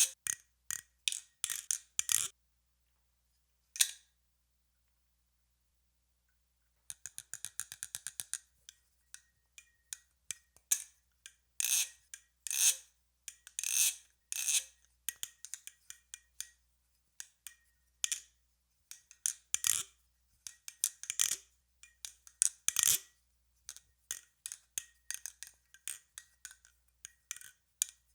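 Nabalis Crescent balisong (butterfly knife) being flipped: its handles swing and clack against each other in a series of sharp metallic clicks and clacks. After the first few clacks there is a pause of a few seconds, then a quick rattle of clicks, then irregular louder clacks.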